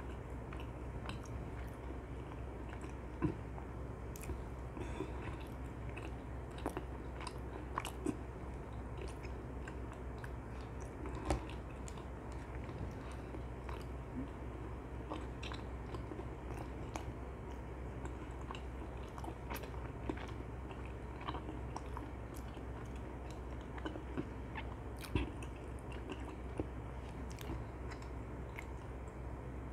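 Close-miked chewing and biting of dakgangjeong, sauce-glazed Korean fried chicken, as a run of small irregular mouth clicks, with a handful of louder bites standing out at about 3, 8, 11 and 25 seconds in.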